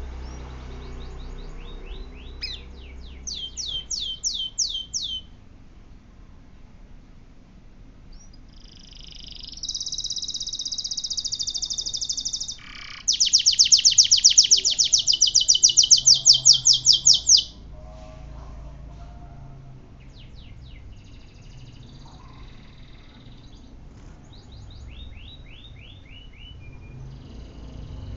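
Canary singing in phrases of rapid high trills and buzzy rolls with pauses between them. The loudest is a fast, high trill of about seven notes a second, a little past halfway through.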